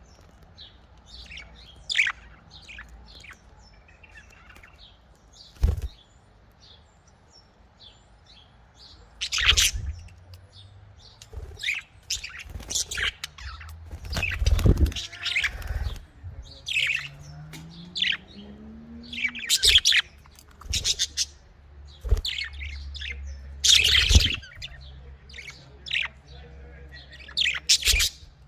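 Budgerigars (Australian parakeets) chirping and chattering in quick short calls, busier in the second half, with a few low thumps among them.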